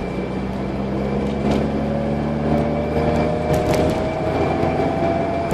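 Car engine running under way, with road noise heard from inside the cabin; the engine's pitch slowly rises as the car gathers speed.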